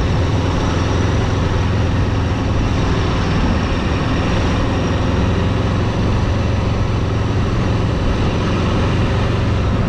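Steady engine and road noise of a vehicle being driven, with a strong low hum.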